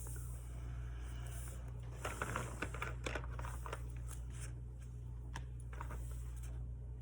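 Paper rustling and crinkling with a few light clicks and taps as planner pages, stickers or tape are handled, strongest about two to three and a half seconds in, over a steady low electrical hum.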